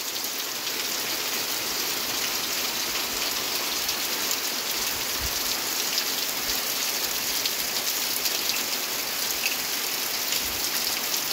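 Heavy rain falling steadily: an even hiss with a fine patter of drops.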